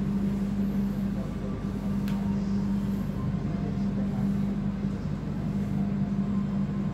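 Passenger train running: a steady low hum over a constant rumbling noise, with one sharp click about two seconds in.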